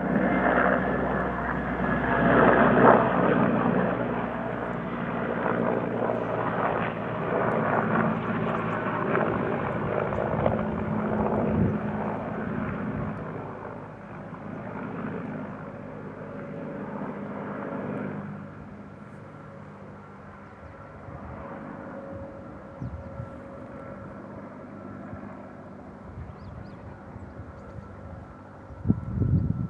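A helicopter flying over. It is loudest in the first few seconds, then fades gradually as it moves away, with a brief low bump near the end.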